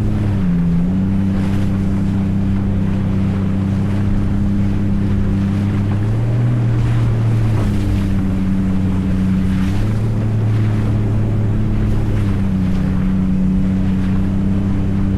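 A jet ski's engine running steadily at speed, with wind and water rushing past. Its pitch dips briefly under a second in and shifts slightly a few times after that.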